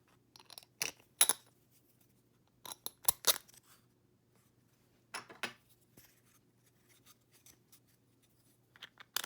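Sharp clicks and clatter of small hard parts and tools being handled, in clusters about a second in, around three seconds, around five seconds, and again near the end, over a faint steady hum.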